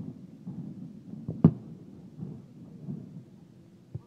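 Aerial firework shells bursting overhead: one loud bang about a second and a half in, with a fainter one just before it and another near the end, and a low rolling rumble between the bangs.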